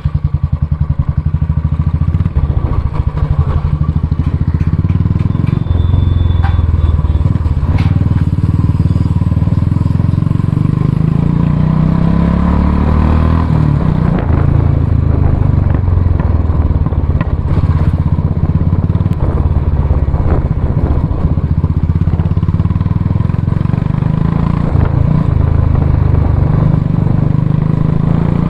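Single-cylinder engine and exhaust of a 2019 Royal Enfield Classic 350 motorcycle running on the move, a steady low beat whose pitch rises and falls with the throttle, with a rising pitch about halfway through.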